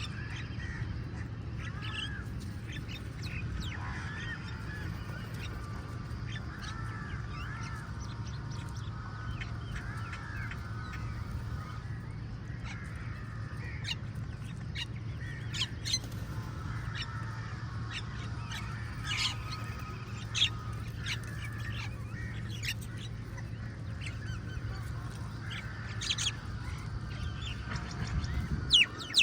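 A flock of crows calling, with short, sharp calls of other birds scattered throughout, over a steady low hum. The calls come more often toward the end.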